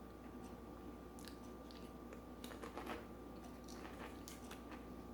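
Faint chewing and biting of food, with small irregular crunches and clicks from the mouth.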